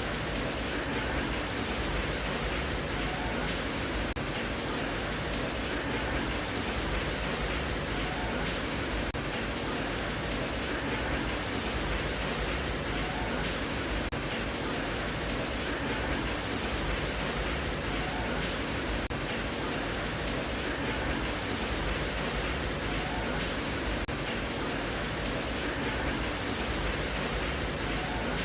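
Steady rain sound: an even, unbroken wash of noise, played as a sleep sound for a baby.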